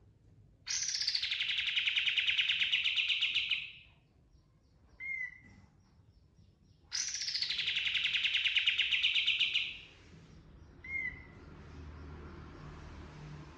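Kapas tembak bird (a bulbul) singing: two long, fast rolling trills of about three seconds each, the ngerol phrase, each followed a couple of seconds later by a single short down-slurred whistle.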